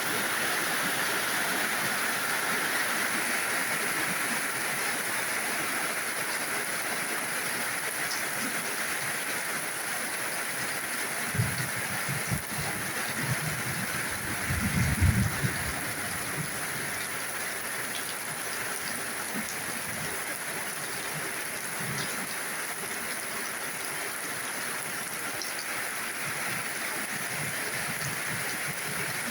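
Steady rain falling, an even hiss throughout, with a few low thumps a little before the middle.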